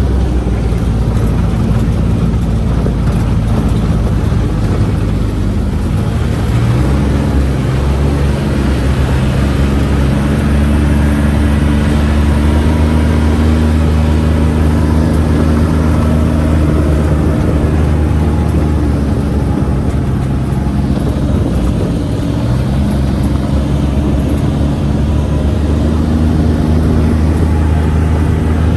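Engine of a UTV side-by-side running steadily under way, a low drone whose pitch shifts up and down a few times as the vehicle changes speed.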